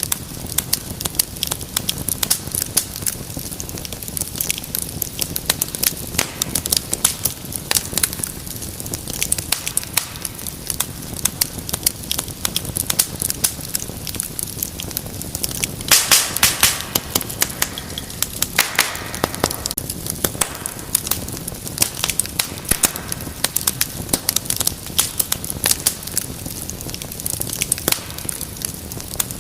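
Wood fire crackling in a fireplace: a steady low rumble of flames under dense small pops and snaps, with a flurry of louder pops about halfway through.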